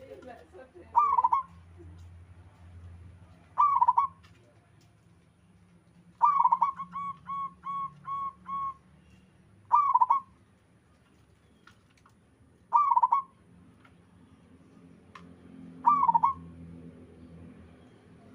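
Zebra dove cooing: six loud coos spaced about three seconds apart, the third running on into a string of six short, evenly repeated notes.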